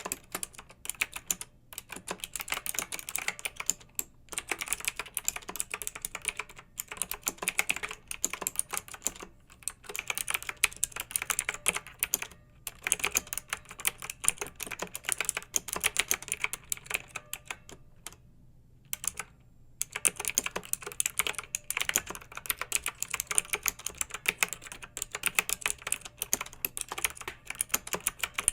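Continuous typing on a clicky mechanical keyboard: rapid keystroke clicks in runs, broken by short pauses, one of them about a second and a half long roughly two-thirds of the way through.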